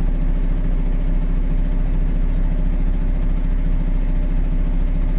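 Dump truck's diesel engine idling with a steady, even hum.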